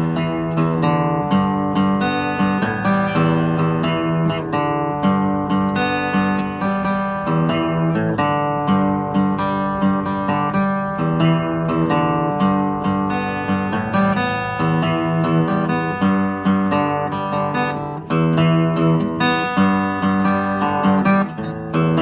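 Acoustic guitar playing continuously, strummed and plucked chords.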